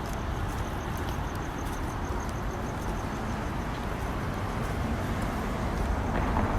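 City street ambience: steady traffic noise with a low rumble from passing vehicles.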